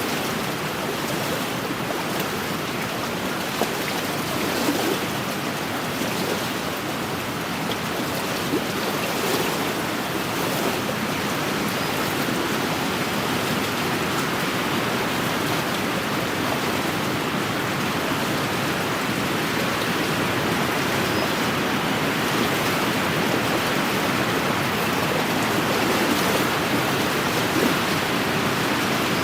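Wind blowing and small lake waves washing against the shore, a steady rushing noise.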